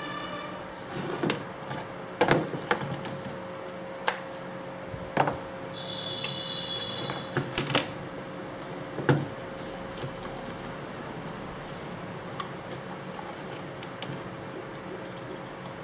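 Scattered clicks and knocks of hands working over an electric drill and its parts, irregular and a few seconds apart, with a short high tone about six seconds in.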